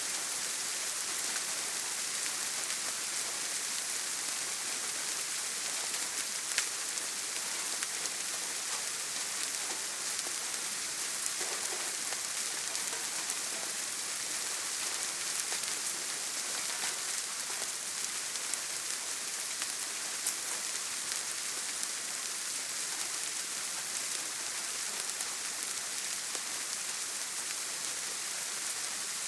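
Heavy rain on a tin roof: a steady, dense hiss with an occasional sharp single-drop tick standing out. No thunder.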